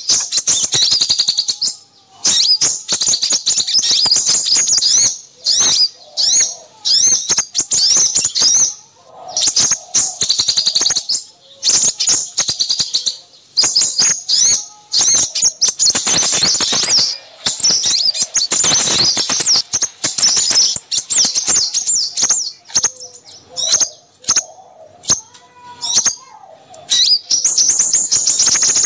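A busy chorus of small songbirds chirping and trilling rapidly in high, overlapping phrases with short breaks. This is a noisy small-bird lure recording of the kind played to draw crimson sunbirds in.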